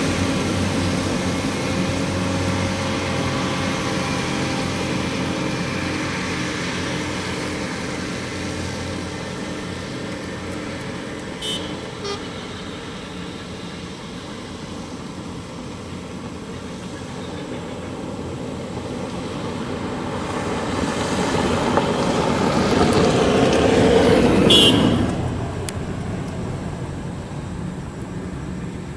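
Heavy coal-haul truck engines on a haul road: one truck's engine fades away, then another truck approaches and passes close, loudest about 24 seconds in before dropping off quickly. A short, high horn toot sounds about 11 seconds in and again as the truck passes.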